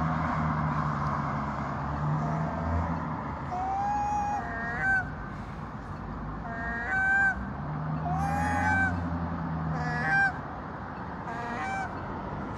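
Gulls giving short, repeated honking calls, about six of them, some rising then falling in pitch, over a steady low engine hum.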